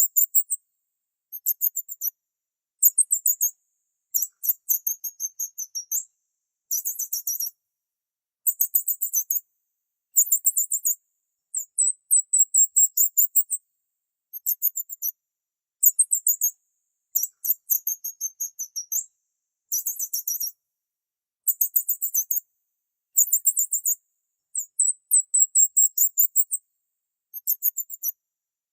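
Small bird chirping, very high-pitched, in short phrases of rapid chirps repeated every second or two with dead silence between them.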